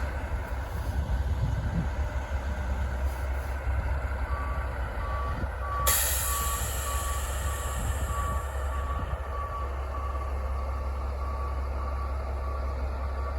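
A maintenance-of-way dump truck's reversing beeper sounds steadily, starting about four seconds in, over the low rumble of its engine. A sudden hiss of air breaks in about six seconds in and fades away over a few seconds.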